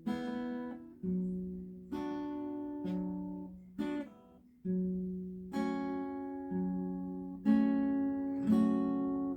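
Acoustic guitar intro: chords struck about once a second, each left to ring and fade before the next.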